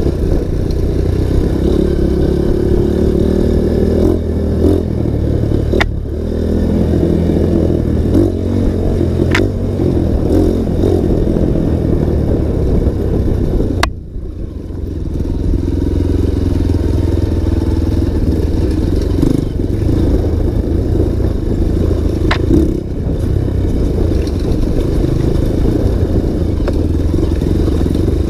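Single-cylinder four-stroke trail motorcycle running on a dirt trail, the throttle opening and closing, with a few sharp clicks and a brief drop in engine sound about halfway through.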